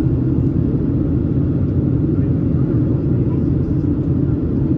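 Steady low cabin rumble of a Boeing 737-700's CFM56-7B engines and airflow, heard from inside the passenger cabin.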